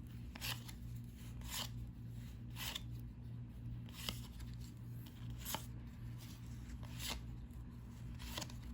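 Cardboard trading cards being slid off a stack one at a time, a short dry swish about every second or so, seven in all, over a steady low hum.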